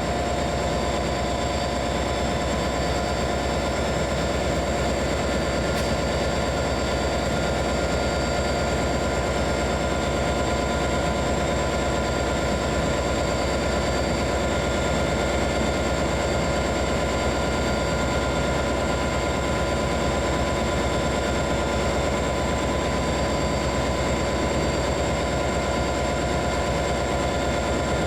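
A stationary train idling: a steady, unchanging engine hum with several held tones, with no pulling away or change in speed.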